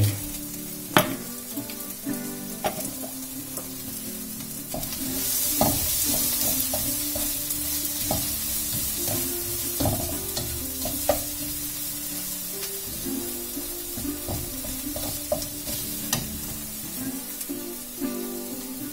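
Green onions, onion and tomato paste sizzling in oil in a non-stick wok over a gas flame while a spatula stirs them. The spatula knocks and scrapes against the pan every second or two, and the sizzle grows louder for a couple of seconds about five seconds in.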